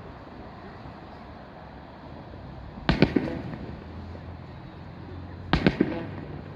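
Aerial fireworks shells bursting: two volleys of two or three quick bangs each, about three seconds in and again near the end, each fading away after the bangs.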